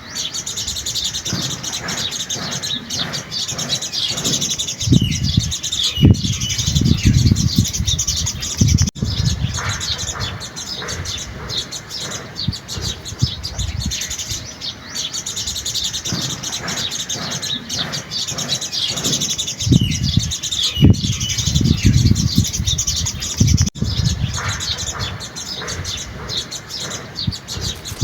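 A chorus of small birds chirping and twittering continuously, many calls overlapping. A low rumble swells in twice for a few seconds, about five seconds in and again about twenty seconds in.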